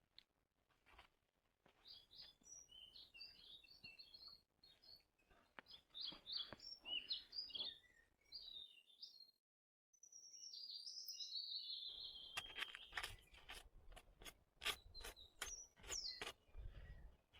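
Small birds chirping and twittering in short, quick notes, broken off for about a second just before the middle. In the second half the chirping goes on over a run of sharp clicks and a low rumble.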